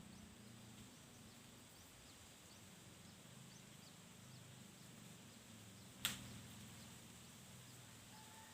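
Faint, short high bird chirps repeating about once a second over a low steady hum, with one sharp click about six seconds in.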